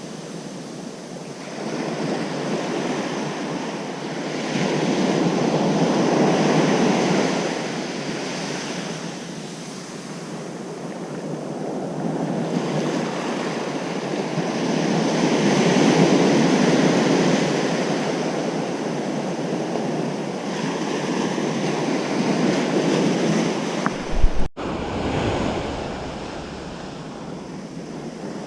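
Ocean surf breaking on a beach, the wash swelling and fading in slow surges, with some wind on the microphone. Near the end, a brief loud bump, and the sound cuts out for an instant.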